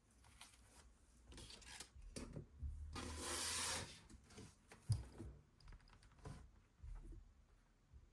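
Hands handling blind-box packaging: scattered rustling and rubbing, a louder crinkling rustle lasting about a second around three seconds in, and a sharp click about five seconds in.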